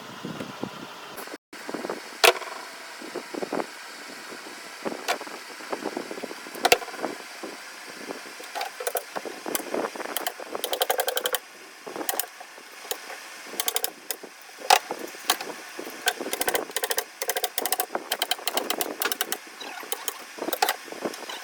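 Repeated sharp knocks and clicks from work on a sofa frame, at times in quick runs, over a steady background hum.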